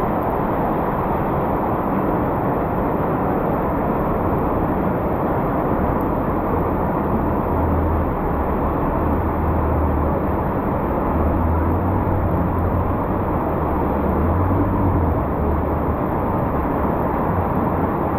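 Steady noise of heavy rain on a flooded city street. From about six to fifteen seconds in, the low hum of a passing motor vehicle comes through under the rain.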